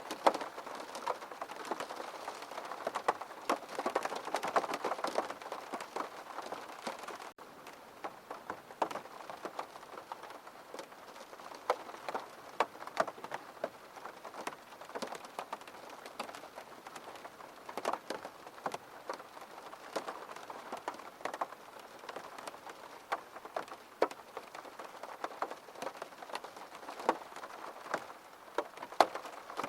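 Steady rain falling, with many separate drops tapping close by, a little heavier in the first few seconds.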